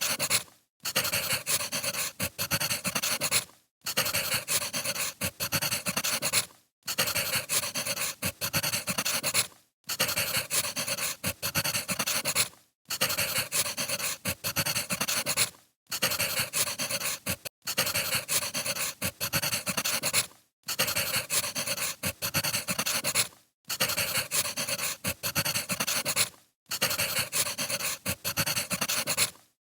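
Burning firewood crackling and popping, a short recording that repeats about every three seconds with a brief break between each loop.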